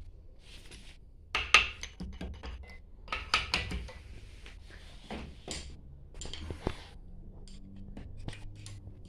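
Irregular metallic clinks and knocks of tools and metal pump parts being handled, the loudest knock about one and a half seconds in and a quick cluster of clanks a little after three seconds.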